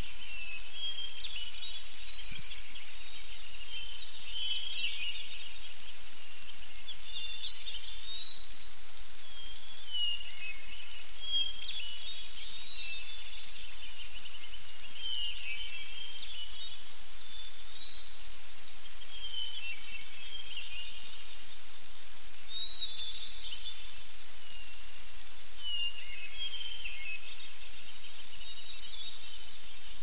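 Small birds chirping and singing in short phrases over a steady high outdoor hiss. A few louder, higher whistled notes come in the first three seconds.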